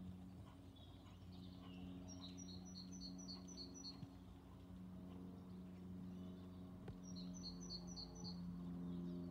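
A songbird singing two short phrases, each a quick run of about seven repeated two-part notes, over a steady low hum.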